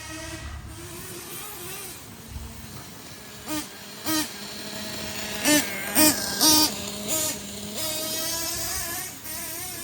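Ofna Titan's .25 nitro engine idling, then blipped about six times in quick succession midway, each a short rise and fall in revs, before running steadily at a higher note near the end.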